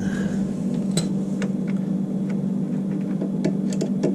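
Scattered small clicks and ticks of hands and tools working the wires off an electric water heater's element terminals, over a steady low hum.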